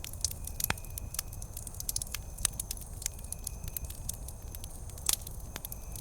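Wood campfire crackling, with frequent sharp snaps and pops and a few louder ones, over a low steady rumble of the flames.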